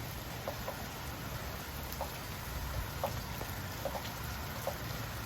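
Heavy rain falling: a steady hiss of rain with several short plinks scattered at irregular intervals.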